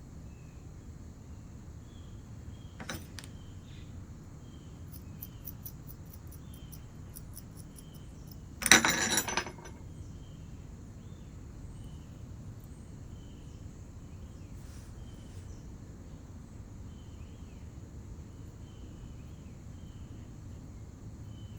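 Work-table handling sounds during clay sculpting: a single click about three seconds in, and a brief loud clatter of tools on the table about nine seconds in. Faint short high chirps repeat throughout.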